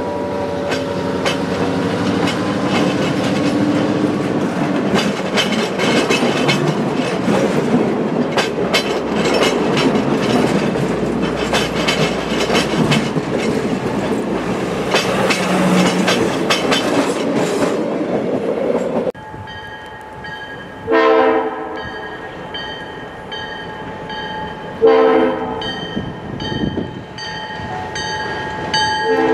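Passenger coaches rolling past close by, their steel wheels clicking over the rail joints. After a sudden change, a grade-crossing bell rings steadily while an approaching diesel locomotive sounds its horn in three separate blasts for the crossing.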